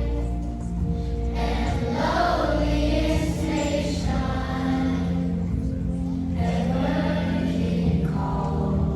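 Choir singing in phrases over steady instrumental accompaniment.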